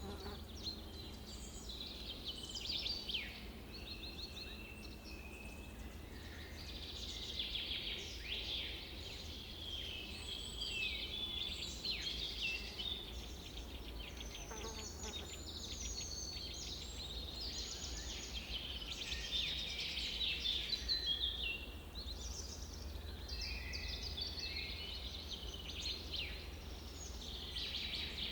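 Several birds singing and calling at once, a dense chorus of chirps, trills and short whistles, over a steady low rumble.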